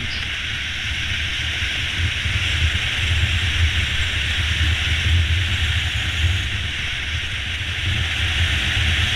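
Honda CB500X motorcycle cruising steadily on a paved road: a low engine and road rumble under a steady rush of wind noise over the helmet-mounted camera's microphone.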